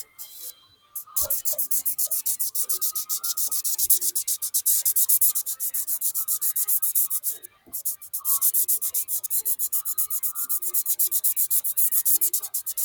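Rapid back-and-forth scribbling of a colouring tool on paper, colouring in an area with quick, even scratchy strokes, about ten a second. It pauses briefly twice.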